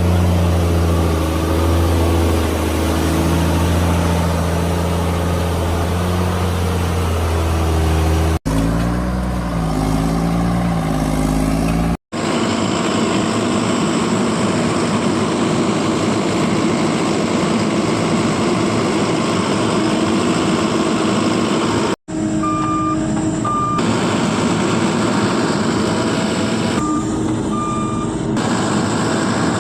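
Heavy vehicle engines running across several abruptly cut clips. In the last part a reversing alarm beeps in short pairs of tones over the engine.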